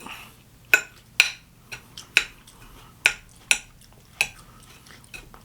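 Eating utensil clinking and tapping against a dish: about eight or nine short, sharp clicks at uneven intervals.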